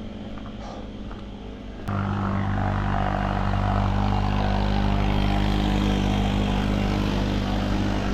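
Motor vehicle engine running close by, coming in suddenly about two seconds in and then holding steady and loud.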